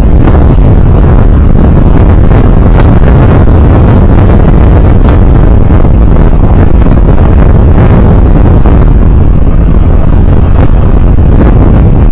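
Wind and road noise from a moving vehicle: a steady, very loud low rumble with wind buffeting the microphone.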